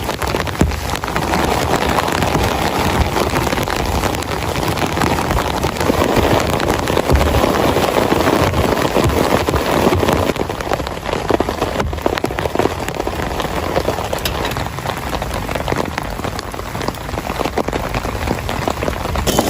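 Heavy rain falling, a dense, steady patter of many drops.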